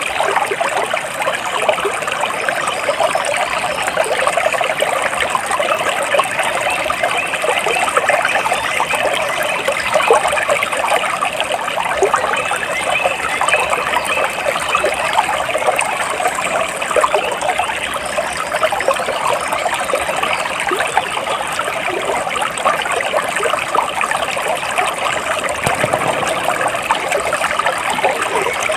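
Flowing stream water, a steady trickling and burbling with no let-up.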